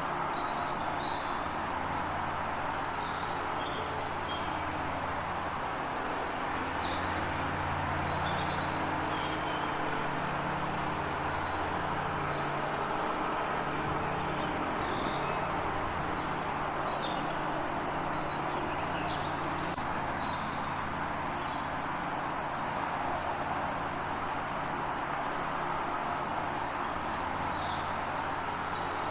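Small birds chirping in short scattered calls over a steady low hum and rushing background noise.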